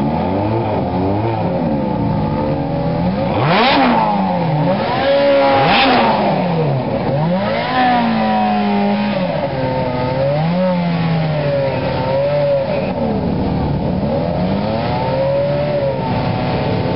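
Two Ferrari F430s' 4.3-litre V8 engines revving together at standstill: repeated overlapping blips that rise and fall in pitch over idle, loudest about four and six seconds in.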